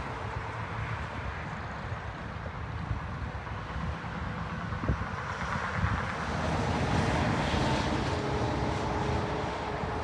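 Jet aircraft engine noise swelling about six seconds in, over wind buffeting the microphone.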